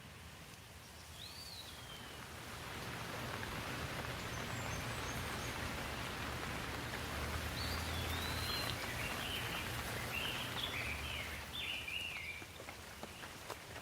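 Rain falling, growing louder a couple of seconds in and easing off near the end, with a bird chirping once near the start and a run of short chirps through the middle.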